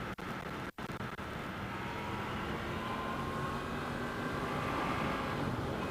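Yamaha FZ-10's crossplane inline-four running at road speed, mixed with wind noise on the rider's microphone, slowly growing louder. The audio cuts out briefly twice in the first second.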